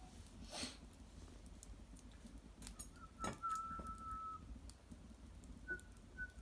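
Cedar wood fire in a sunken hearth crackling faintly with scattered pops. A thin, steady whistle from steam or gas escaping the burning wood starts about three seconds in and lasts over a second, then comes back briefly near the end.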